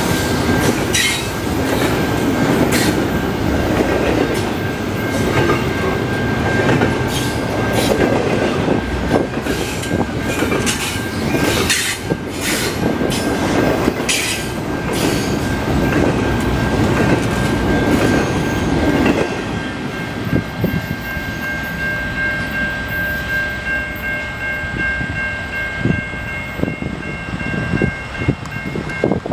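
Double-stack intermodal freight train's well cars rolling past close by: a loud rumble with wheels clattering over the rail joints and a thin steady wheel squeal. About two-thirds of the way through the last car passes and the rumble drops, leaving fainter squealing tones as the train moves away.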